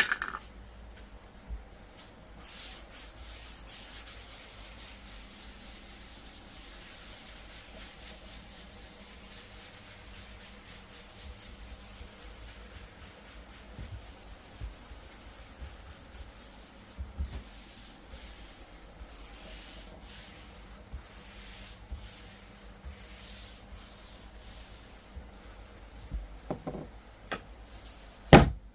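Steady hand rubbing over the surface of a wooden cutting board, with a few light knocks along the way and one sharp knock near the end.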